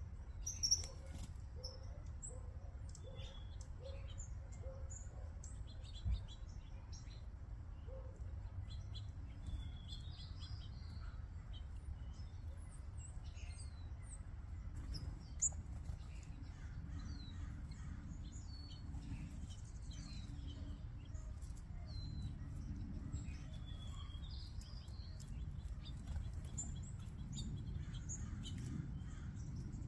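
A flock of small backyard songbirds (finches and sparrows) chirping and twittering, with many short calls overlapping, over a steady low background rumble. A few brief sharp clicks stand out, near the start, about six seconds in and about halfway through.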